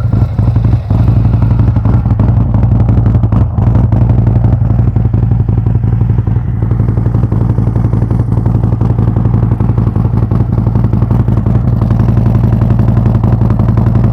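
2019 Harley-Davidson CVO Street Glide's Milwaukee-Eight 117 V-twin idling steadily with a deep rumble through Krome Werks Aggressor headers and slip-on mufflers, warming up after a cold start from weeks of standing.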